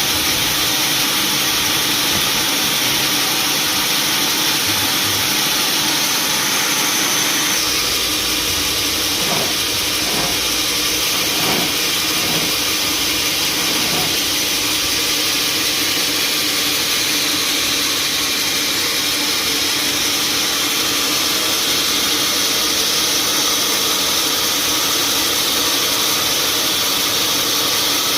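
Sawmill machinery running steadily, a loud, even mechanical noise with a hiss on top, its low end shifting slightly about seven seconds in.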